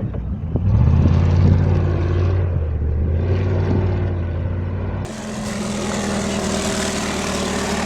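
Off-road 4x4 truck engine running steadily under load. About five seconds in there is an abrupt cut to a second vehicle's engine, running at a higher, steady pitch with more hiss.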